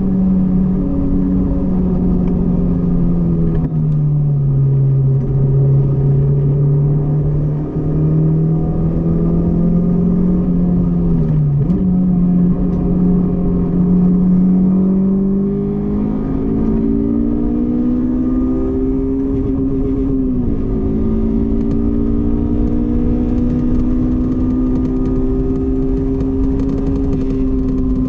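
Honda S2000's engine on track, its pitch falling as the car slows, then climbing under acceleration with a few brief dips at gear changes, holding high, and dropping again near the end as it comes off the throttle.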